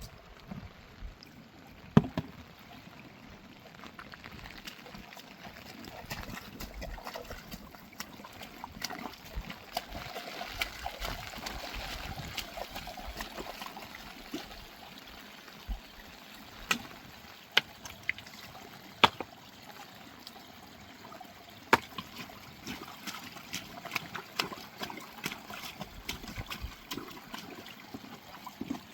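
Water trickling and flowing steadily, with scattered sharp knocks and clicks, a few of them louder than the rest.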